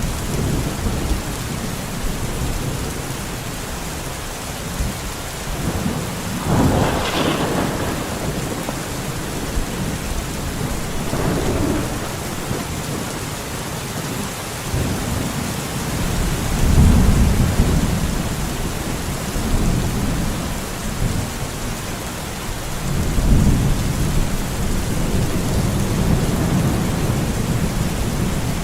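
Steady rain in a forest with rolling thunder. One brighter clap comes about a quarter of the way in, and low rumbles swell past the middle and again toward the end.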